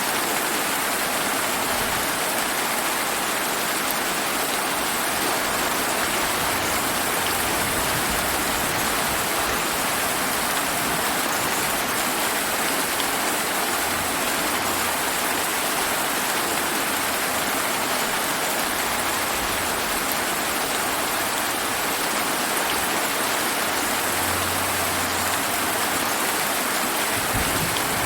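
Steady rain falling, a continuous even hiss with no breaks or thunder.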